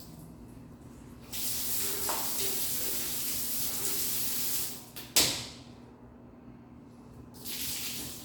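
A long spraying hiss lasting about three seconds, a single sharp knock, then a second, shorter spray near the end, all during cleaning.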